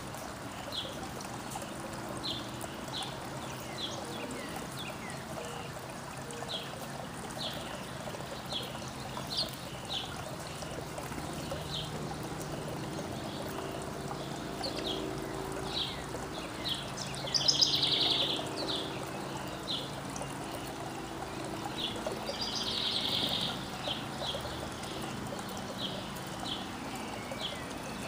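Backyard songbirds chirping, short high calls about once a second, with two louder buzzy trills partway through, over a steady rushing background.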